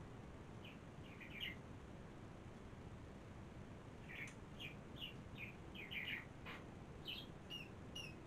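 Small bird chirping faintly: short, quick, downward chirps, a few about a second in and a longer run of them from about four seconds in.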